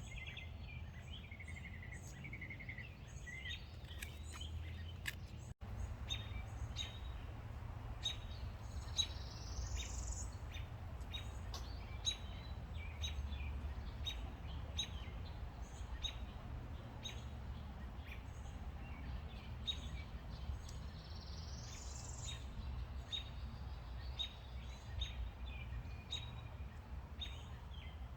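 Wild birds singing and calling, with a rising chirp twice, over a steady low rumble and scattered light clicks.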